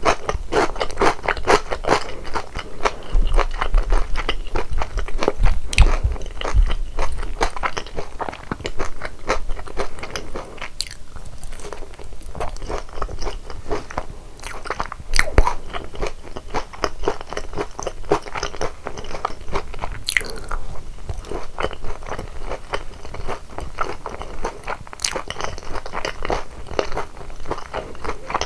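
Close-miked crunching and chewing of boneless sauced fried chicken, a dense run of crisp bites and wet chews with a short pause partway through.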